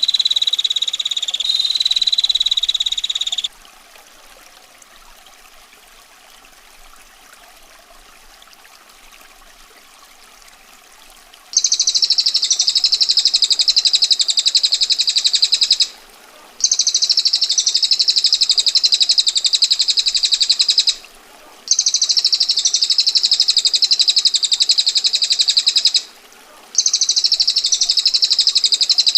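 Female prenjak (prinia) giving long, dense, rapid rattling trills, the 'ngetir' roll: four trills of several seconds each with short breaks, starting about a third of the way in. A trilled bird phrase ends in the first few seconds, and a steady sound of running water carries on underneath throughout.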